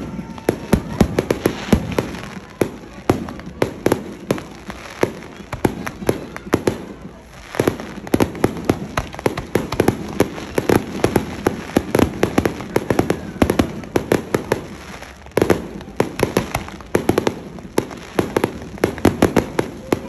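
Fireworks display: aerial shells bursting in quick succession, a continuous barrage of bangs and crackling, with a short lull about seven seconds in.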